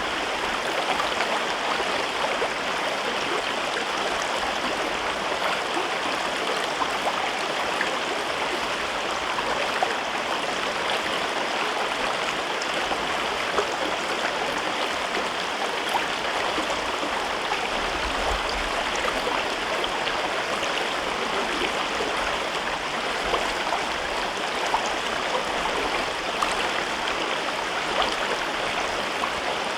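A mountain river running steadily through a rocky gorge: a continuous rush of flowing water with small splashes and droplets ticking through it.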